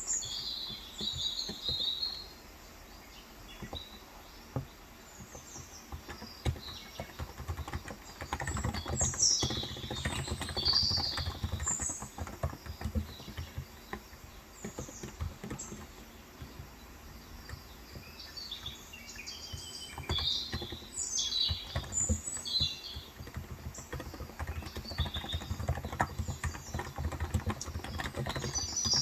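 Typing on a Cox Endeavour electro-capacitive tenkeyless keyboard with 35 g switches, key presses coming in runs that thin out early on and pick up again. Small birds chirp in several short bouts over the typing.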